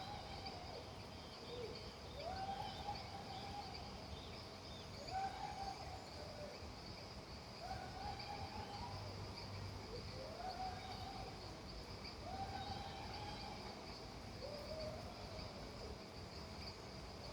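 A steady high insect trill, with an animal call that rises and then holds for just under a second, repeated about every two to three seconds, over a faint steady hiss.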